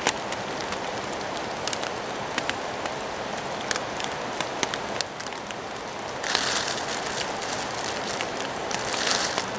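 Steady rain falling, with many sharp single ticks of drops landing close by. Twice, about six seconds in and again near the end, a louder hissing rustle or scrape rises over the rain.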